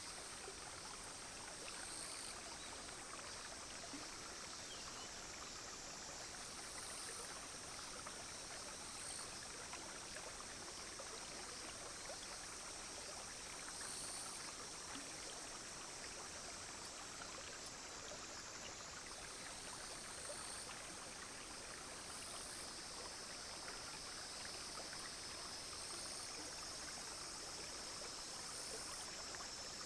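A clear, small stream flowing steadily, with insects calling in a steady high-pitched drone above it. The insect sound shifts in strength every few seconds.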